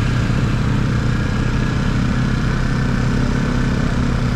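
Motorcycle engine running steadily at low road speed, a constant hum with an even rush of noise over it.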